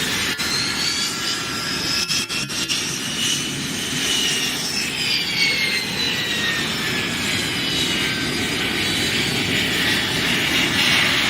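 Jet engines of Aero Vodochody jet trainers flying past, a steady rumble under a high turbine whine that glides up and then down in pitch as they pass.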